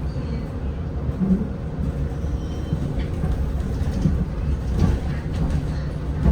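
Zhongtong N12 bus on the move: a steady low rumble of the ride.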